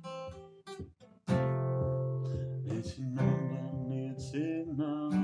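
Acoustic guitar strumming chords over long held pitched tones, the instrumental lead-in to a kirtan chant; the music starts properly about a second in.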